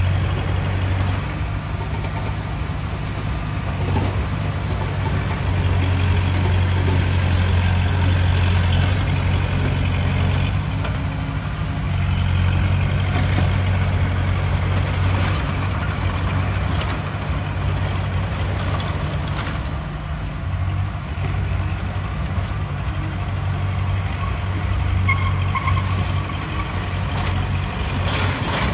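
Heavy diesel engine of earthmoving machinery running under varying load, its low drone rising and easing every few seconds, with a few short knocks.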